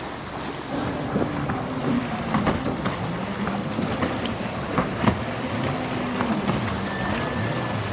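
Motorboat engine running, its pitch rising and falling repeatedly as the throttle is worked, over steady wind and surf noise, with a few sharp slaps.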